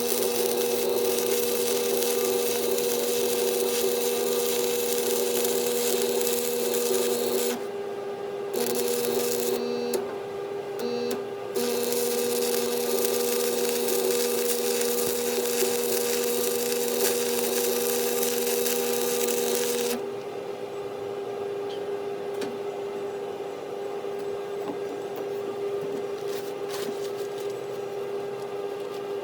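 Stick (arc) welding: the arc crackles and hisses steadily with the welder buzzing under load, in a long run, two short breaks, then another long run that stops about two-thirds of the way in, leaving a steady hum.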